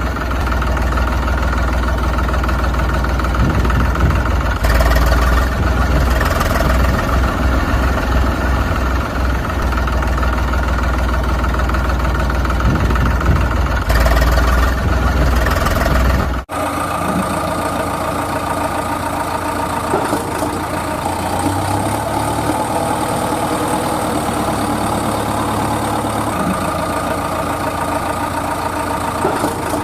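Vehicle engine running steadily at idle; the sound changes abruptly about sixteen seconds in and the engine continues after.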